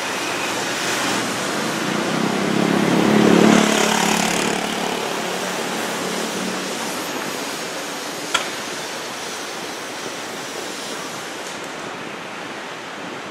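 Electric commuter train pulling out of an elevated station, its running noise on the viaduct swelling to a peak a few seconds in and then slowly fading, over a steady city street hiss. A single short sharp ping about eight seconds in.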